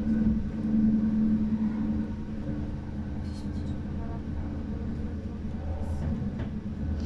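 Running noise of a moving passenger train heard from inside the carriage: a steady low rumble with a hum that is strongest for the first two seconds.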